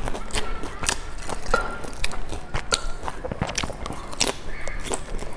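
Close-miked eating of crispy pan-fried dumplings: irregular crunches and wet mouth clicks as they are chewed, with a fresh bite near the end.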